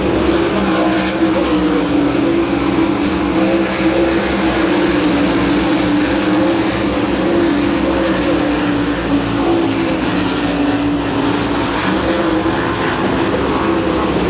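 Sprint car engines running at racing speed around the track, a loud continuous drone whose pitch wavers up and down as the cars lap.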